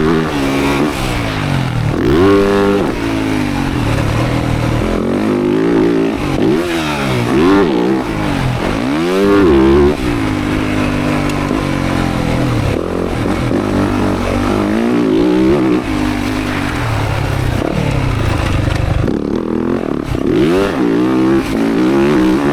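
Motocross dirt bike engine being ridden hard, its pitch rising and falling over and over as the throttle opens and closes and the gears change.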